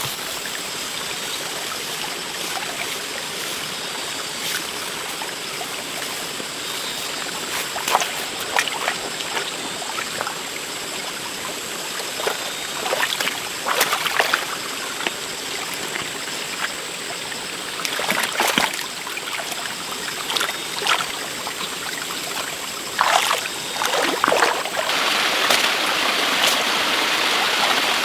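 Steady running water like a stream, with scattered sharp knocks and scrapes every few seconds and a thin steady high tone. The water grows louder near the end.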